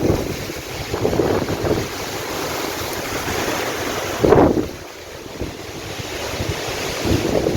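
Storm wind gusting and buffeting the microphone over steady heavy rain, with a strong gust about four seconds in, then easing off.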